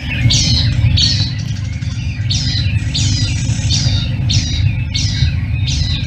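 Tawny-flanked prinia calling: a string of short, high notes, each falling in pitch, repeated about twice a second with a brief pause early on, over a steady low rumble.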